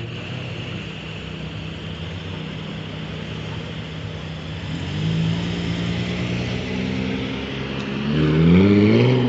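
Car engines running as cars pull away slowly, with a second, deeper engine note coming in about halfway through. Near the end one car revs hard, its engine note rising quickly and peaking in loudness just before the end.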